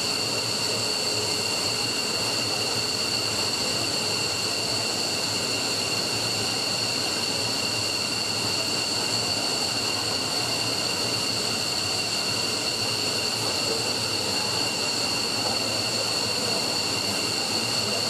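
F-15's Pratt & Whitney F100 turbofan engines running steadily on the ground during an engine test run, with a steady high-pitched whine made of several tones over the jet's rush.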